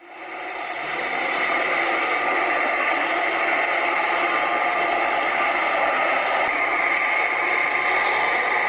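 Heavy vehicle engine running steadily with a rattle, rising over the first second and then holding level.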